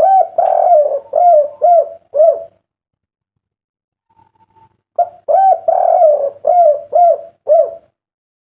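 Spotted dove (derkuku) cooing: two phrases about five seconds apart, each a long coo followed by three short closing notes, the 'kuk 3' ending that keepers prize.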